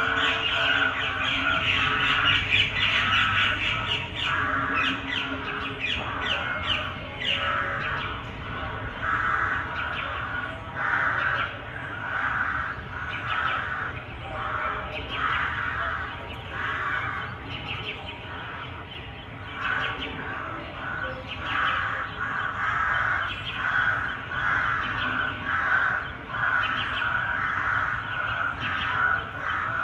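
Crows cawing over and over, harsh calls following one another in quick succession.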